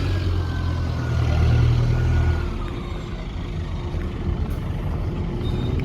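A motor vehicle running close by, its engine dropping away about two seconds in and leaving general street noise.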